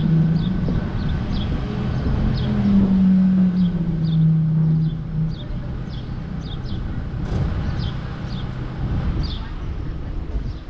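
A vehicle engine running with a steady low hum whose pitch drops twice in the first half before settling lower. Short high falling chirps repeat over it about once or twice a second.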